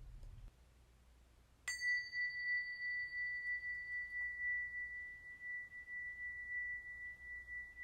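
A high, pure metal tone struck once just under two seconds in, ringing on steadily with a slow waver; its brief upper overtones die away quickly. It is typical of a tuning fork or a small struck chime.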